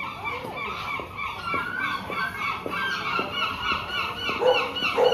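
Many gulls calling at once in a dense, continuous chorus of overlapping short cries.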